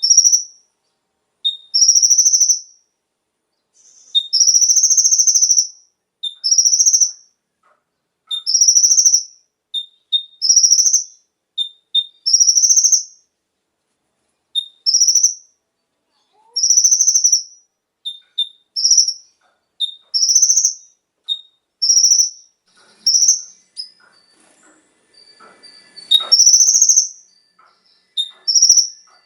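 Kolibri ninja (konin) sunbird singing: loud, high chirping phrases repeated every second or two, with short sharp notes in between.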